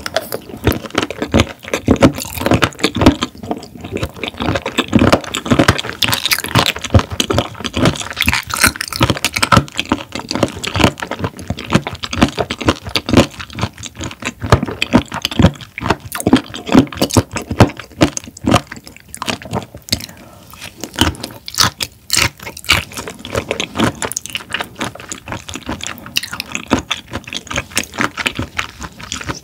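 Close-miked chewing of raw shrimp: a dense, continuous run of small mouth clicks and smacks.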